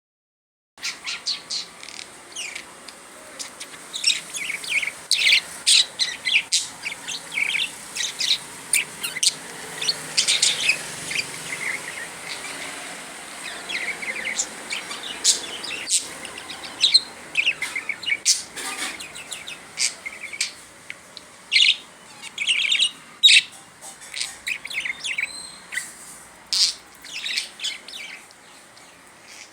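Pet budgerigar chattering: a continuous run of quick, high chirps and warbles.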